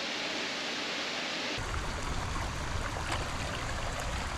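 Steady rush of a waterfall and its stream. About a second and a half in the sound changes abruptly and a deep low rumble is added under the rushing water.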